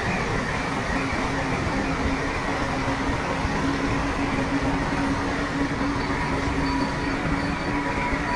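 Heavy diesel earthmoving machinery running steadily, a dense mechanical noise with a constant low droning tone.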